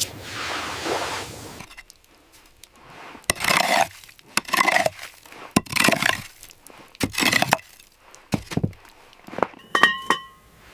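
A whoosh that falls away, then a string of clattering knocks and clinks of hard objects, about seven of them, the last ringing briefly like glass or metal.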